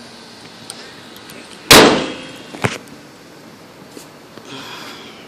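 A sharp clang about two seconds in, ringing briefly, then a lighter knock about a second later.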